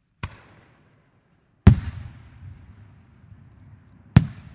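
Aerial fireworks shells booming three times, the second boom the loudest, each followed by a rolling echo.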